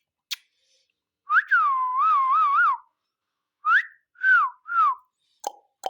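Indian parrot (rose-ringed parakeet) whistling: one wavering whistle lasting about a second and a half, then three short whistled notes. Two sharp clicks follow near the end.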